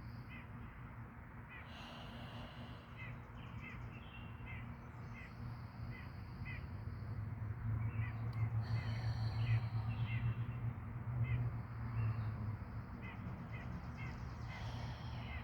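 Birds calling in short, repeated chirps over a steady low rumble that swells in the middle.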